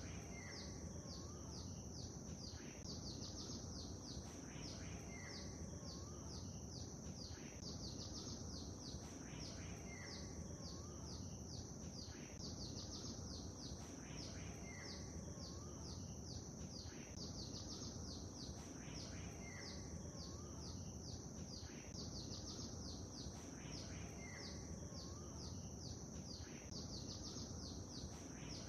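Small birds singing over a steady low wash of lake water. A short two-note call repeats about every two and a half seconds above a constant high, rapid chirping.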